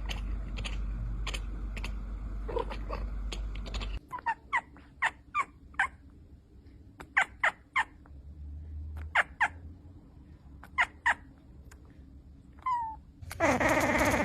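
A cat vocalising: a series of short, high chirps in twos and threes, then a loud, drawn-out meow near the end. The first few seconds hold a steady low rumble with clicks.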